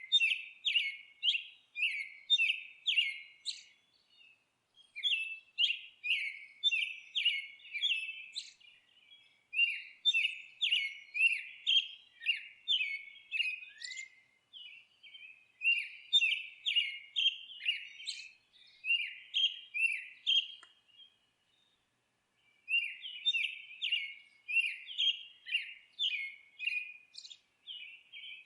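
A songbird chirping: long runs of short, quick notes, about three a second, broken by a couple of brief pauses.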